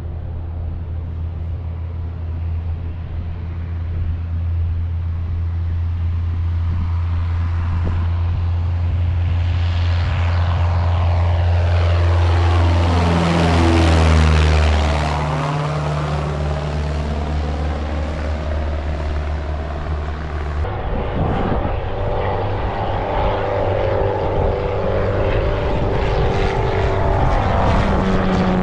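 Light propeller airplane's engine at full power, passing close by: its note drops in pitch as it goes past about halfway through. Near the end the sound changes abruptly to another steady propeller-engine note.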